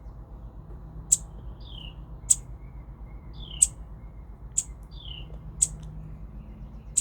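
Small songbird calling over and over: a sharp, high chip about once a second, most of them paired with a short falling note.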